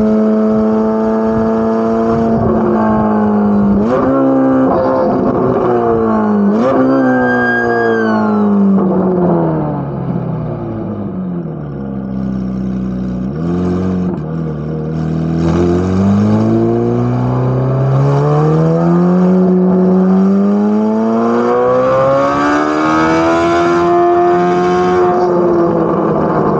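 Chevrolet Corvette C8 Z06's naturally aspirated flat-plane-crank V8 exhaust. The engine holds steady, gives two short rev blips about four and seven seconds in, then falls in pitch as it slows to a low point about halfway. Through the second half it climbs steadily as it accelerates, easing off near the end.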